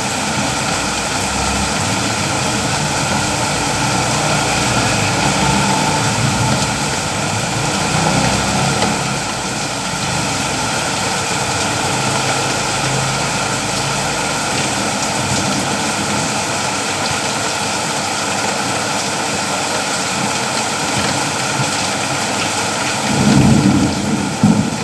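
Steady rain falling in a continuous hiss, with a low rumble now and then and a louder low rumble near the end.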